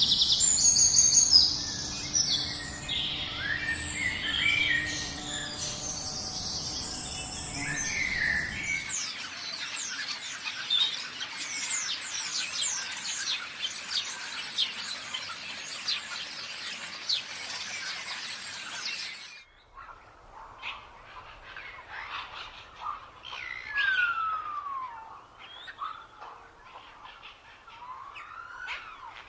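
Several wild birds singing and calling over one another, with dense rapid chirping in the middle. The sound changes abruptly about nine seconds in and again about twenty seconds in, and the last part is quieter, with slurred whistles falling in pitch.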